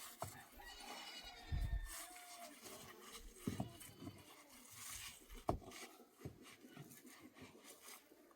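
A goat bleating with a wavering call about a second in, among a few sharp knocks.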